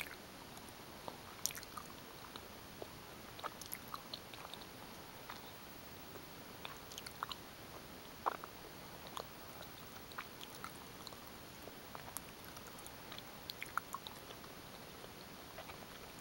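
Gummy bears being chewed close to the microphone: irregular small clicks and smacks of the mouth, several a second at times, over a steady background hiss.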